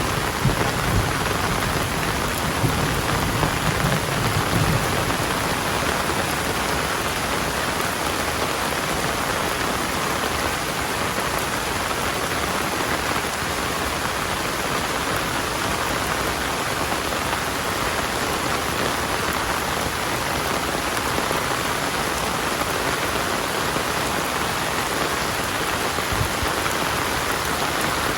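Heavy rain falling steadily and densely, with a low rumble in the first few seconds.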